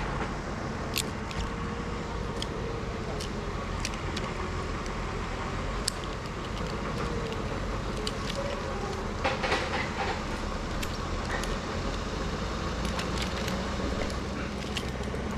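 Steady low engine rumble with scattered light metallic clicks and clinks, a brief cluster of them about two-thirds of the way through.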